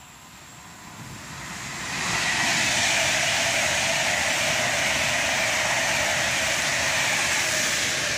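Passenger train passing through a station at speed: the rushing noise builds over the first two seconds, then holds as a steady, loud rush of wheels on rail and displaced air while the coaches go by, starting to fade near the end.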